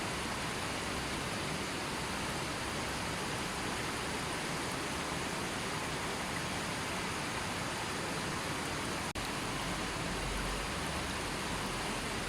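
A river flowing steadily, its water making an even rushing hiss. The sound cuts out for an instant about nine seconds in.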